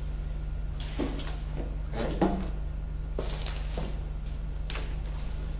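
Plastic knocks and clicks as the grass catcher bag of a Makita DLM530 cordless lawnmower is handled, with the loudest knock a little over two seconds in. A steady low hum runs underneath.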